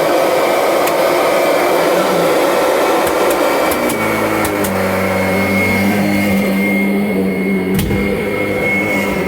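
2017 Kirby Avalir upright vacuum running steadily, its motor giving a high whine. About four seconds in, a deeper hum joins. A few light clicks and one knock are heard over it near the end.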